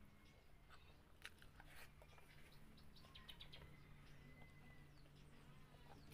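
Faint chewing and mouth-smacking clicks from someone eating, irregular and short, over a low steady hum.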